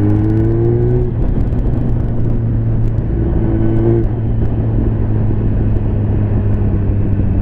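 Liter-class motorcycle engine running under way with a steady rush of noise. Its pitch climbs and then drops twice, about a second in and again about four seconds in.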